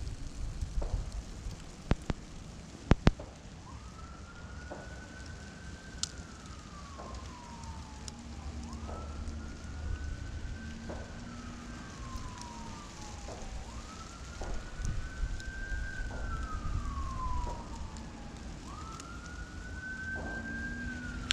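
A siren wailing slowly, each wail rising, holding and then falling, about every five seconds, over a steady low wind rumble. A few sharp clicks come in the first three seconds.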